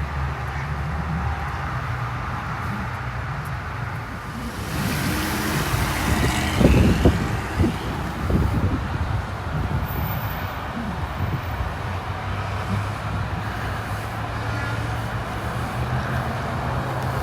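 Heavy fire apparatus engines running steadily as the rigs pull out. About five seconds in a swell of road and engine noise rises, with heavy low rumbling thumps around seven seconds as a vehicle passes close, then it settles back to a steady rumble.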